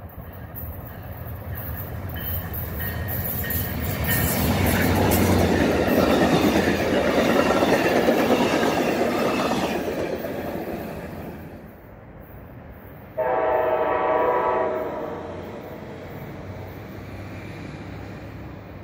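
A MARC commuter train passing, its wheel and rail noise building to a peak and fading away over about ten seconds. Near the end comes one train horn blast of about two seconds.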